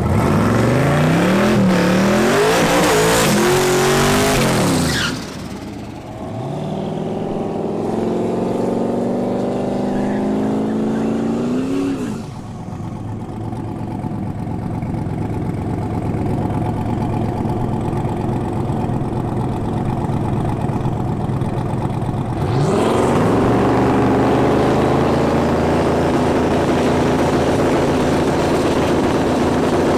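Twin-turbo 408 cubic inch LS V8 doing a burnout: the engine revs up in rising sweeps with the rear tyres spinning, and cuts back about five seconds in. It revs again while rolling forward, then runs steadily at low revs while staging. About 22 seconds in it jumps to a loud, steady high rev, held on the two-step against the trans brake to build boost for the launch.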